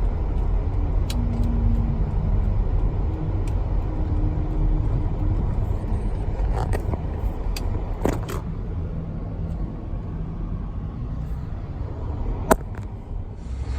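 A car engine running with a low rumble and a slowly shifting pitch, with a few sharp clicks over it, the loudest about twelve seconds in.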